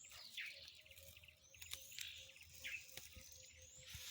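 Faint bird calls: a short high chirp repeated about three times over a quiet outdoor background.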